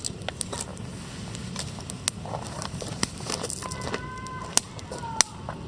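Wood campfire crackling, with sharp irregular pops and snaps. A brief whistle-like tone sounds about four seconds in.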